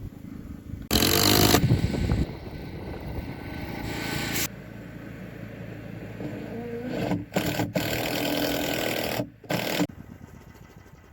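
An engine running, heard as a series of short segments that start and stop abruptly.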